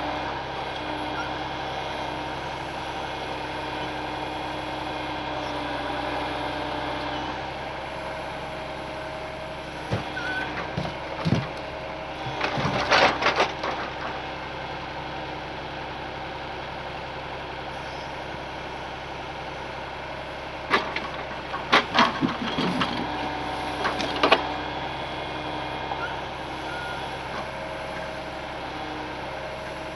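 Heavy truck engine running steadily while driving, with two spells of loud clattering knocks and rattles, about a third of the way in and again about two-thirds in.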